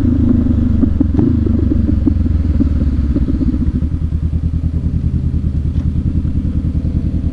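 Honda CB500X parallel-twin motorcycle engine running at low speed, settling about halfway through into an even, pulsing idle.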